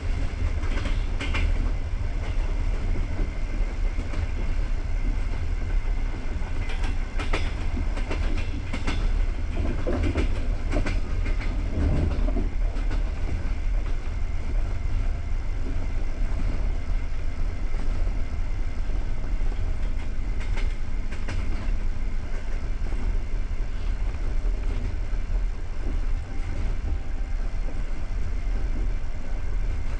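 Passenger train running on the rails: a steady low rumble from the carriage, with the wheels clicking over rail joints, thickest in a run of clicks about a third of the way in.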